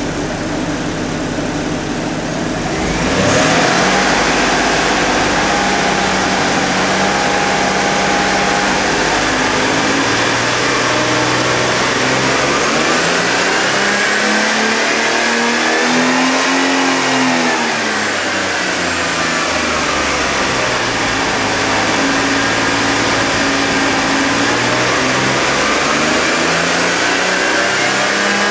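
Citroën Xantia Activa V6's 3.0-litre V6 engine running with the bonnet open. It gets louder about three seconds in and settles to a steady idle. Around the middle it is revved up slowly and let fall back to idle.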